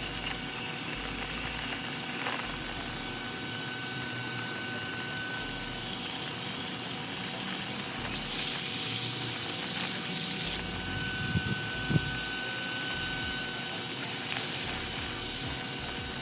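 Steady rushing of water running from an AC air handler's opened PVC condensate drain line, with a faint steady whine. A couple of short knocks come about two-thirds of the way through.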